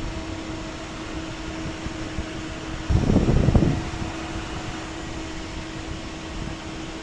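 Cooling fans of a homemade liquid-cooled Peltier air conditioner running steadily with a steady hum. About three seconds in there is a brief, louder rush of noise lasting under a second.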